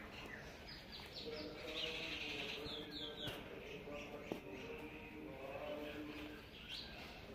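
Small birds chirping: quick, high chirps in short clusters, about a second in, around three seconds in and again near the end.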